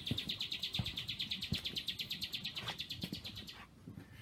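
A bird's fast, even, high-pitched trill that stops near the end, over soft thumps of footsteps.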